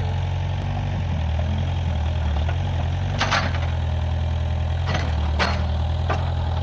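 Case 580G backhoe loader's diesel engine running steadily at low revs, with a few sharp knocks in the second half.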